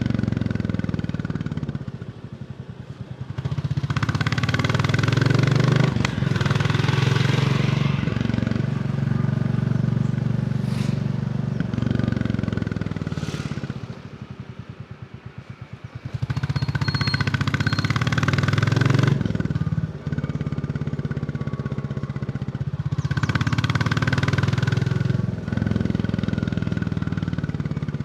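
Royal Enfield Bullet 350 single-cylinder engine under way, its exhaust beat rising as the throttle is opened and falling away twice when it is rolled off, with brief dips like gear changes.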